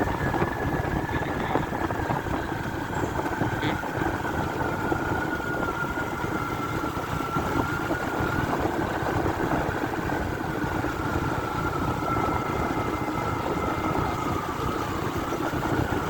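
Motorcycle engine running steadily on the move, with a thin whine that drifts slowly in pitch over a continuous rumble.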